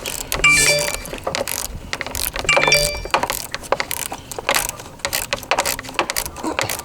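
Ratchet wrench clicking in irregular runs as it loosens the negative battery terminal clamp. Two short pitched sounds come through, about half a second in and again near two and a half seconds.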